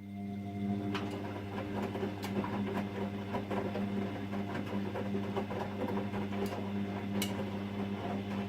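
Bosch Maxx 6 front-loading washing machine turning its drum in the wash cycle: a steady motor hum with the clicking and swishing of tumbling laundry, starting abruptly at the very beginning. It is still washing with its timer stuck at one minute instead of moving on to the spin, which the owner takes for a software bug.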